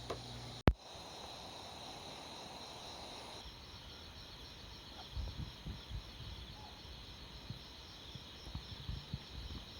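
Night insects trilling steadily in a fast pulsing chorus, with a sharp click under a second in and a few soft low thumps in the second half.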